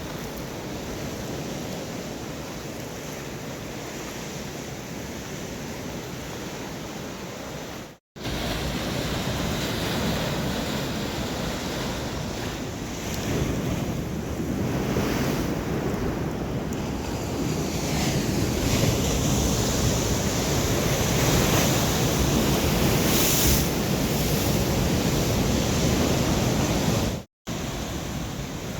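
Stormy sea surf breaking and washing on the shore, with wind buffeting the microphone; the surf grows louder in the second half. The sound cuts out for an instant twice, about eight and twenty-seven seconds in.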